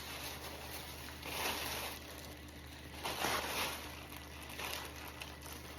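Plastic rain gear rustling: soft swishes every second or two as the waterproof pants and poncho are handled, over a steady low hum.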